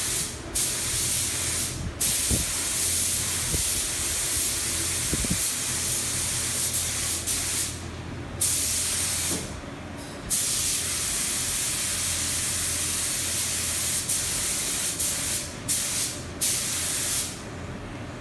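Paint being sprayed: a steady hiss of spray in long passes, cut off briefly several times as the trigger is released, and stopping shortly before the end.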